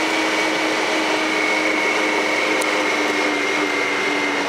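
Engine of a small off-road riding vehicle running steadily under way, with a steady high whine over the engine note. The engine is fresh from a dealer maintenance with valve check and runs smoothly.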